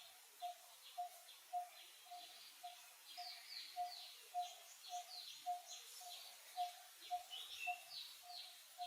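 Birds calling: one bird repeats a short low note about twice a second, over many quick, high, falling chirps from other birds.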